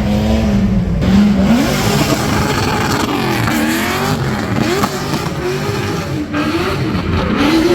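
LS-swapped BMW E46 drift car's 4.8-litre V8, with a stage 2 cam and long-tube headers, revving up and down over and over under hard driving.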